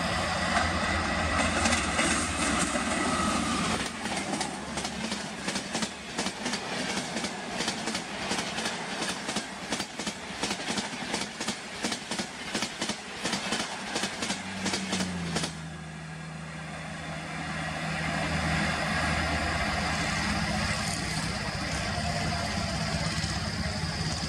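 High-speed Indian Railways express passenger train passing close by: a rush of noise, then a fast, regular clickety-clack of coach wheels over the rail joints that stops abruptly about two-thirds of the way in as the last coach goes by. A steady low engine hum stays after it.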